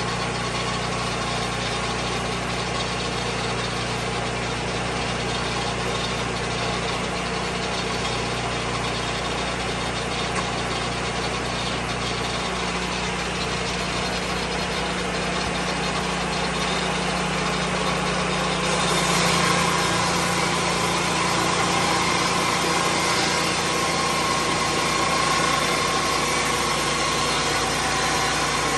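Lucas Mill 10-30 swing blade sawmill running steadily under its engine. About two-thirds of the way through, its sound changes and gets slightly louder, with more hiss and a stronger, higher tone.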